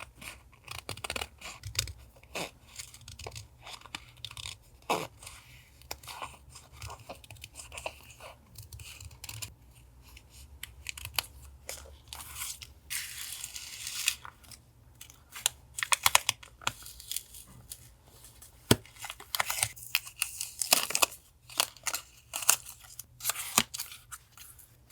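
Paper collage materials being handled: paper rustling, crinkling and tearing, with many small taps and clicks and a couple of longer crackling stretches.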